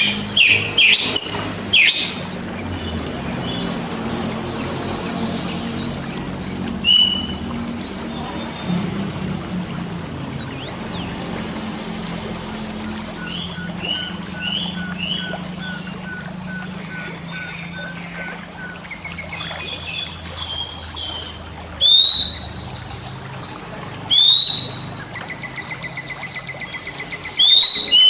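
Oriental magpie-robin (kacer) song: a varied string of whistles and chirps, including a run of short, evenly spaced notes in the middle and several loud upswept whistles near the end. A faint low steady hum runs underneath.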